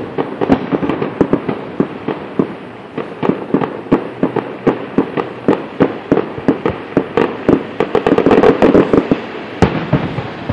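Aerial fireworks shells bursting in quick succession, a steady run of bangs and crackles several a second. About eight seconds in they thicken into a dense barrage, and one sharp bang follows just after.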